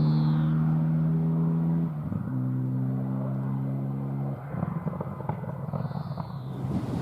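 A four-wheel-drive rally car's engine holding a steady high-revving note, with a brief break about two seconds in, like a gear change. A little over four seconds in it comes off the throttle into a rough, uneven burble with scattered sharp pops.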